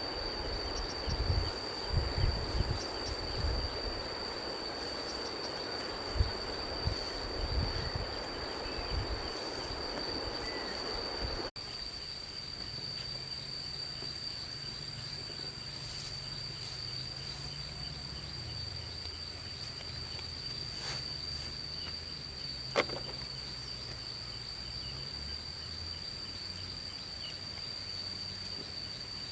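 A steady, high, unbroken insect drone over outdoor rural ambience. For the first ten seconds or so there are irregular low thumps and rustling, then the sound cuts abruptly to quieter ambience, with a single sharp click later on.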